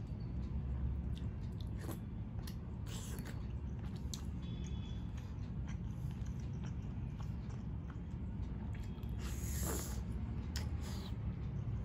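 Close-miked mouth sounds of chewing momo dumplings: wet smacks and small clicks. There is a louder bite into a momo about ten seconds in.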